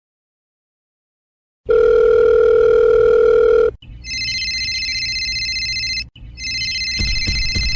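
A telephone dial tone sounds steadily for about two seconds, then a phone rings electronically twice in a row, with a few clicks near the end.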